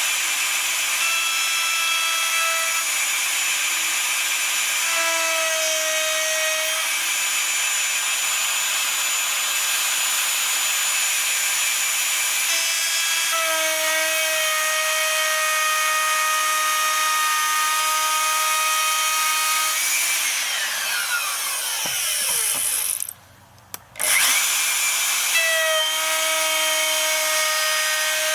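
Handheld router with a bearing-guided flush-trim bit running at a steady high whine as it trims mahogany. About 20 s in it is switched off and winds down in pitch, then it is switched on again a few seconds later.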